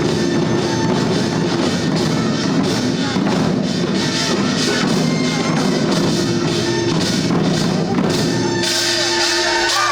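Korean folk percussion music for the Jindo drum dance: buk barrel drums beaten in a steady driving rhythm over a sustained melodic tone. Near the end the low drum sound thins out and a brighter, higher sound comes forward.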